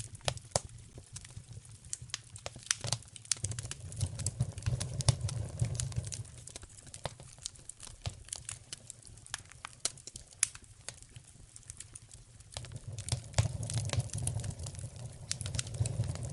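Wood fire crackling in a fireplace: many irregular sharp snaps and pops over a low rumble of flame that swells twice, a few seconds in and again near the end.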